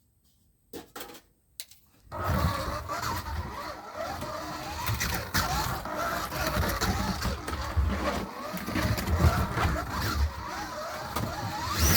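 Scalextric slot cars lapping a plastic track: small electric motors whining up and down in pitch as they speed up and slow for the corners, over the low rumble of the cars on the track. A few clicks come about a second in, and the running starts about two seconds in.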